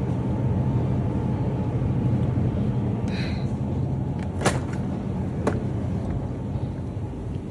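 Steady low rumble of background noise in a store, with two sharp clicks about four and a half and five and a half seconds in.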